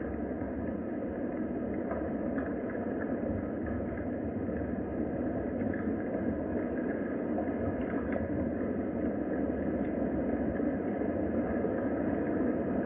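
Steady rain: an even rushing noise with a deep rumble beneath it and a few faint ticks.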